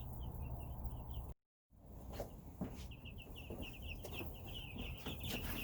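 A brood of week-old Cornish Cross meat chicks peeping: short, high peeps, scattered at first and then a quick, unbroken run of them from about halfway through. The sound drops out completely for a moment about a second and a half in.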